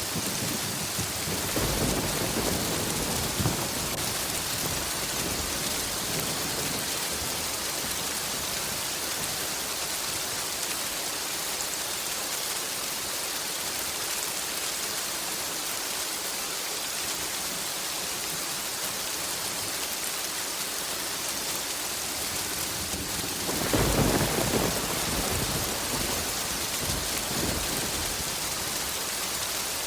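Steady rain with two rolls of low thunder: a weaker rumble about two seconds in and a louder, longer one later on.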